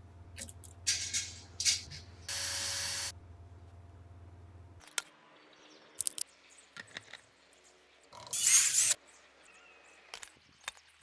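Several short bursts of hiss, one held steady for nearly a second and the loudest about eight seconds in, with a few sharp clicks between them. A low hum stops about five seconds in.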